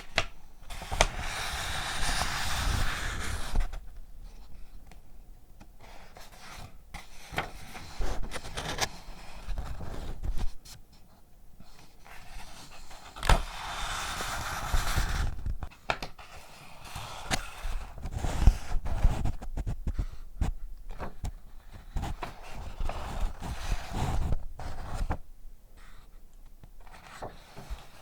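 Paper and packaging being handled: two longer rustling, crinkling stretches, one about a second in and one near the middle, with many sharp taps and clicks between and after them.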